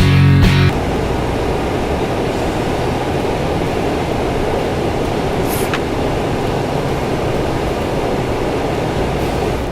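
Music cuts off under a second in, then a steady, loud rumbling noise of a running vehicle continues.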